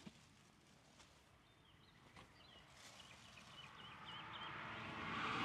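Faint bird chirping, a quick run of short high notes. Near the end a vehicle's noise rises and grows louder.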